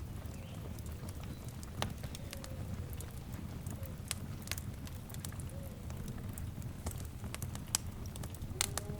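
Fireplace fire burning with a steady low rumble and scattered sharp crackles and pops. A faint animal call with a clear pitch comes in near the end.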